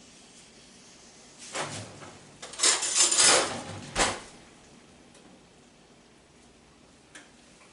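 Kitchen handling clatter: a brief scuffle, then about a second of loud scraping, sliding noise, ending in a single sharp knock, like a drawer or cupboard being worked.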